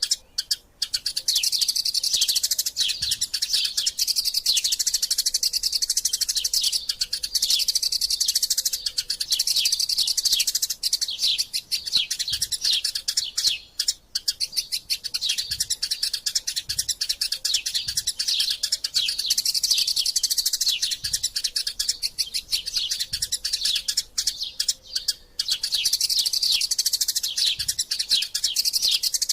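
Eurasian tree sparrows giving a dense, fast stream of short, high chirps, the excited chatter of sparrows squabbling, with a few brief pauses.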